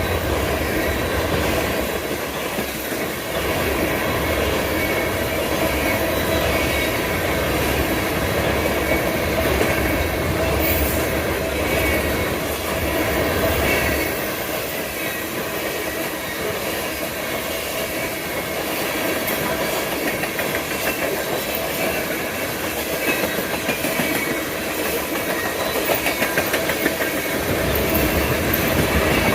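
Freight train cars rolling steadily past, wheels clacking over rail joints, with a faint wheel squeal.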